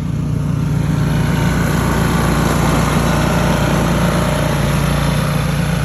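A small engine running steadily, getting a little louder during the first second.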